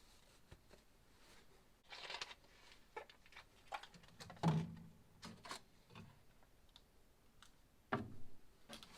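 Scattered clicks and knocks of hard objects being handled and set down on a workbench. There is a louder knock with a short low ring about halfway through, and another sharp knock near the end.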